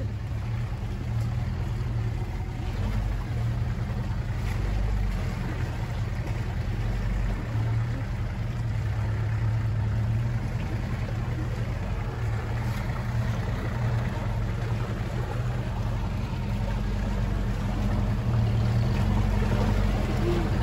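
Land Rover 4x4 engine running steadily under way as it drives an off-road track, a low drone with rattle and road noise over it.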